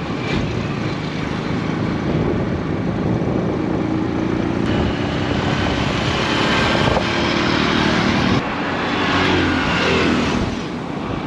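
A vehicle engine running, its pitch rising and falling with the revs about nine seconds in.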